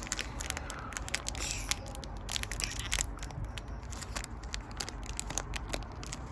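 Foil Pokémon booster pack wrapper crinkling and crackling as it is handled and torn open: a run of irregular small clicks and crackles.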